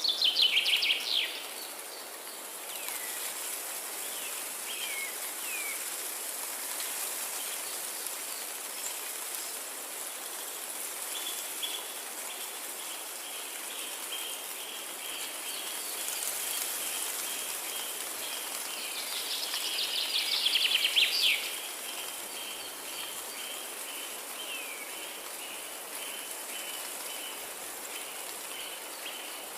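Forest ambience with songbirds singing. Two loud fast trilled songs that drop in pitch stand out, one at the very start and one about twenty seconds in, with a run of short repeated calls from about halfway on over a steady high hiss.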